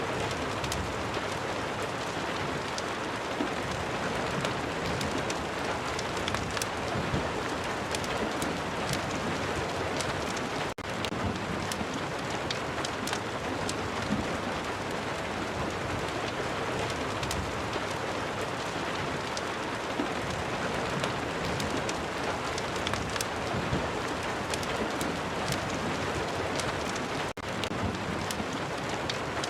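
Steady rain mixed with a crackling wood fire: a continuous hiss dotted with scattered sharp pops. The sound dips for an instant twice, about 11 s and 27 s in.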